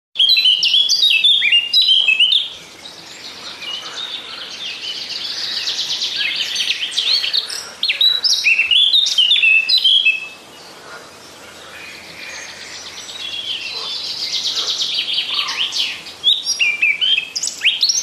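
Small cage birds chirping and twittering: bursts of loud, sharp chirps alternate with longer stretches of quieter, fast twittering, the same pattern coming round about every eight seconds.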